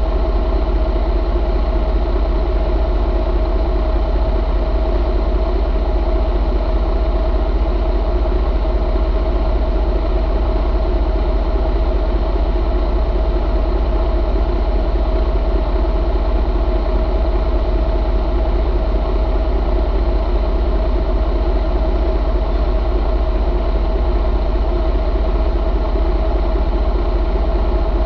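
A 2019 Detroit DD15 inline-six diesel engine idling, running steadily at an even pitch.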